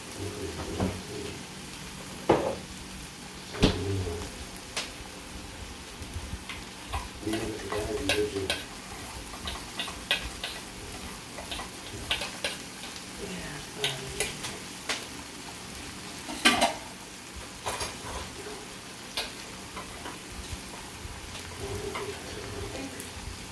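A spoon stirring a mayonnaise-based sauce in a bowl, with a steady scraping hiss and scattered sharp clicks of the spoon against the bowl.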